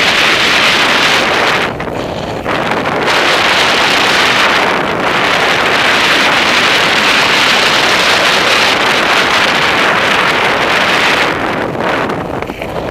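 Heavy wind rushing over the microphone of a mountain biker riding downhill on a dirt trail, a loud steady rush that eases briefly twice and fades toward the end.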